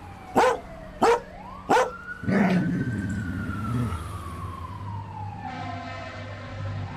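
A dog barks three times, short and sharp at about one-second spacing, over a fire-engine siren wailing slowly up and down. A heavier, lower rumble joins about two seconds in.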